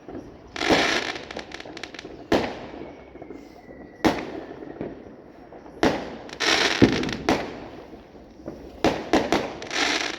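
Fireworks going off: a string of sharp bangs, some followed by dense crackling, with a faint high whistle falling slightly about three seconds in.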